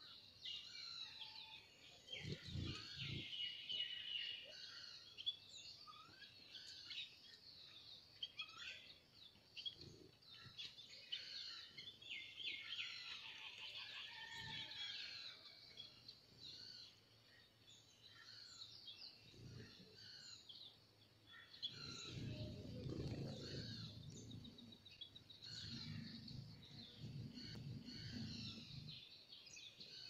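Several small birds chirping and twittering, a busy mix of short high calls and trills with no single song standing out. About two-thirds of the way through, a low rumble joins for several seconds.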